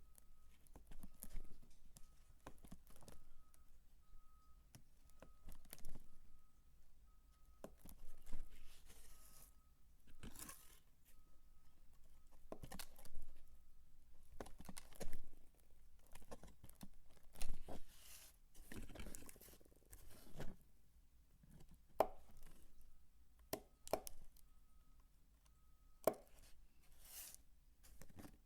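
Bar soap being cut and crumbled by hand: irregular crisp crunches and clicks, some trailing into a short crumbly hiss.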